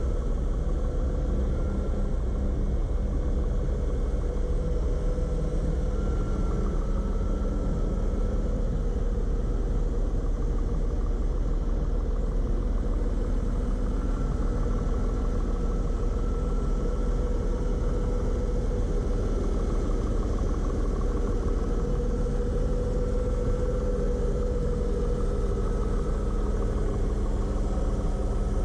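1986 Mercedes-Benz 300E's 3.0-litre M103 straight-six engine idling steadily, heard from the open engine bay.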